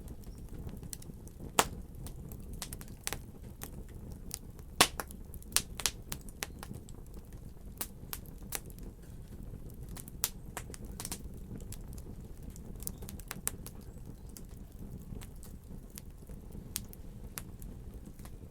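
Fireplace fire crackling, with irregular sharp pops over a steady low rumble. The loudest pops come about a second and a half in and just before five seconds in.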